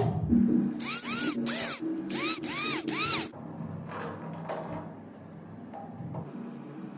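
Small electric drill or screwdriver run in about four short bursts, the pitch of each rising and falling as the trigger is squeezed and released, followed by lighter clatter of handling parts.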